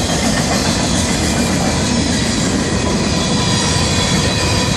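Freight cars of a Florida East Coast Railway train rolling past close by: loud, steady wheel-on-rail noise with a faint high wheel squeal.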